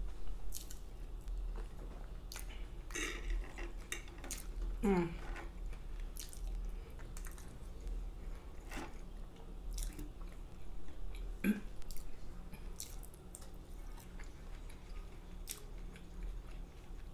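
Close-miked chewing and mouth smacking, with scattered wet clicks from a mouth full of food.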